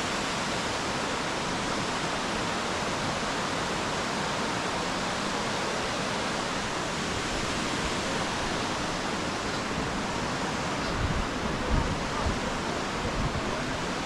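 Kinchkha Waterfall's falling water making a steady, even rushing noise. Low thumps of wind on the microphone come in near the end.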